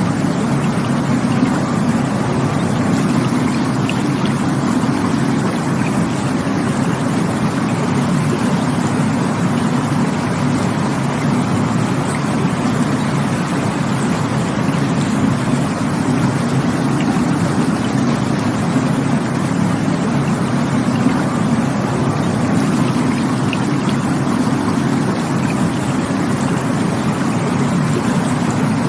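Rushing water of a stream, a steady unbroken rush that is deepest and heaviest in the low range.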